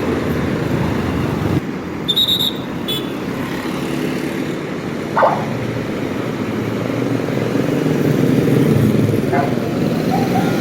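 Steady road traffic noise of vehicles passing, with a short high tone about two seconds in and a brief sharp sound about five seconds in.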